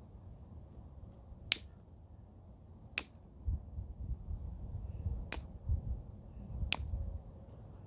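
Flintknapping: a homemade bopper striking a stone biface to knock off flakes, four sharp, ringing clicks a second or two apart. A low rumble runs under the later strikes.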